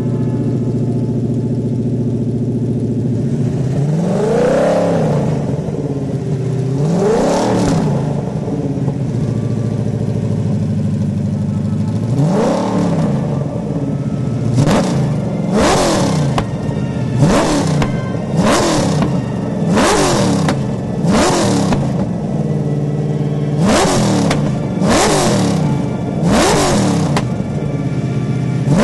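A De Tomaso Pantera's swapped-in BMW engine on individual throttle bodies, idling and revved by hand at the throttle linkage. It gives three slower revs, then about nine quick blips roughly one every second and a half, dropping back to idle between each.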